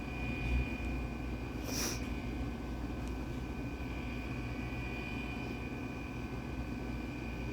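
Steady low background rumble with a faint, steady high-pitched whine over it, and one short hiss about two seconds in.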